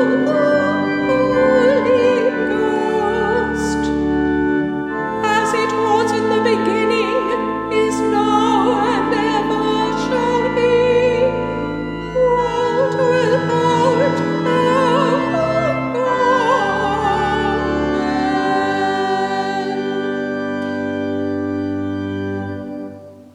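Choir singing Anglican chant with pipe organ accompaniment, ending on a long held final chord that dies away near the end.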